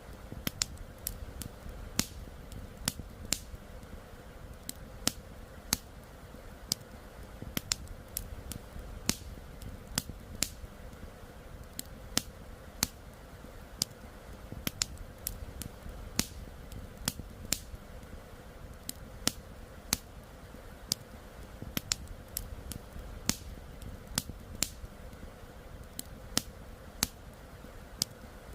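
Wood campfire crackling, with irregular sharp pops and snaps a few times a second, over the steady rush of flowing river water.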